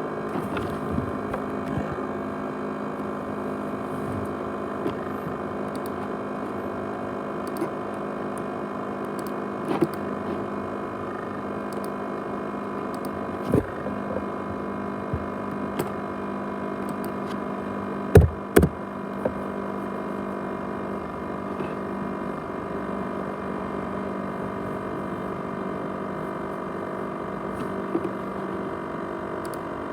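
500 GB USB hard drive running with a steady whirring hum made of several steady tones. A few sharp clicks or knocks break through, the loudest two close together about 18 seconds in.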